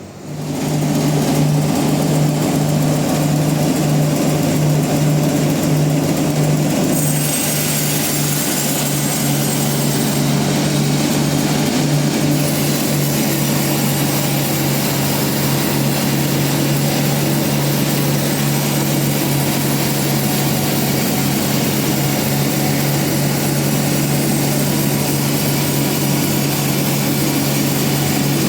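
Large bandsaw mill running under load with a steady hum, coming up to full level within the first second; a brighter, higher hiss joins about seven seconds in.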